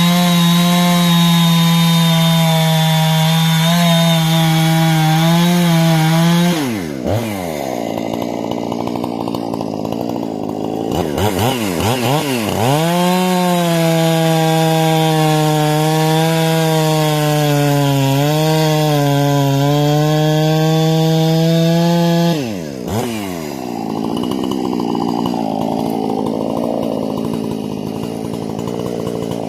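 Husqvarna 460 single-cylinder two-stroke chainsaw with a modified carburetor and muffler, held at high revs for several seconds with the pitch sagging slightly at times, then falling back to idle. This happens twice.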